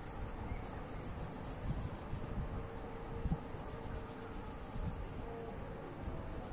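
A colouring tool scratching on paper in quick, regular back-and-forth strokes as an area is filled in with colour.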